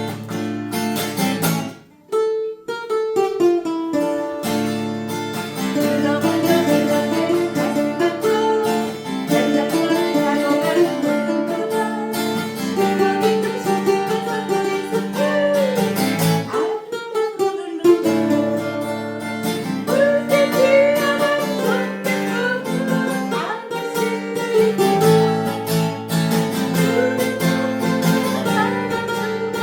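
Acoustic guitar and ukulele strumming chords together, with a voice singing over them. The playing stops briefly about sixteen seconds in, then picks up again.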